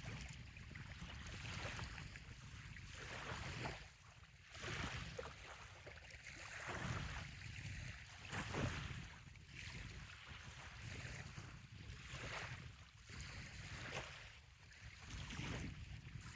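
Small bay waves lapping and washing on a sandy shore, a soft rushing that swells and ebbs every second or two, with wind rumbling on the microphone underneath.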